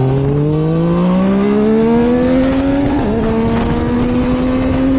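Yamaha MT-09's three-cylinder engine accelerating, its note rising steadily, with a brief dip about three seconds in as it shifts up a gear before climbing again. Wind buffets the action camera's microphone.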